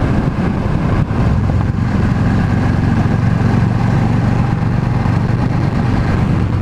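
Yamaha V Star 650's air-cooled V-twin engine running at a steady pitch while the motorcycle is ridden.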